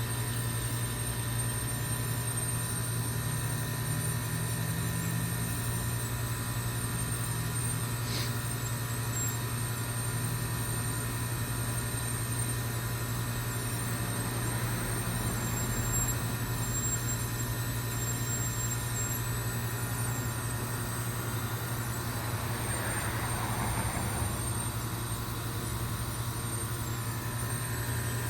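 2005 York Olympian (Latitude 10) heat pump outdoor unit running steadily in its defrost cycle, a constant low compressor hum with a thin high whine above it. There is a single short click about a third of the way in and a faint brief hiss near the end.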